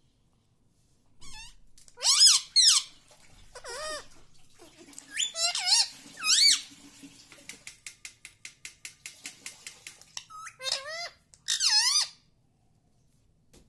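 Indian ringneck parakeet calling in high-pitched notes that swoop up and down, in short bursts. In the middle comes a quick run of short clicking notes, about four or five a second.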